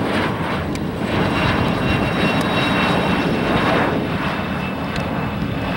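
Cessna Citation Sovereign's twin Pratt & Whitney Canada PW306C turbofans going past on landing: a loud jet roar that swells and then eases, with a steady high whine from about a second in.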